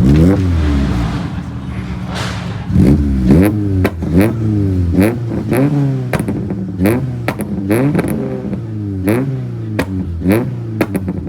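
A tuned car engine revved hard again and again, about a dozen quick blips that each rise and fall in pitch, with sharp exhaust pops and bangs as the throttle closes.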